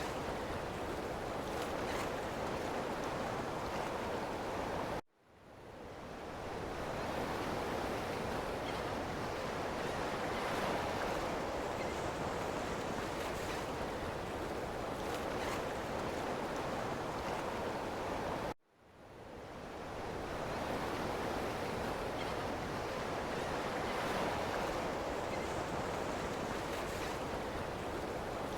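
Ocean surf washing ashore in a steady rush. It cuts out abruptly twice, about five seconds in and again about two-thirds through, fading back in over a second or two each time, like the joins of a looped recording.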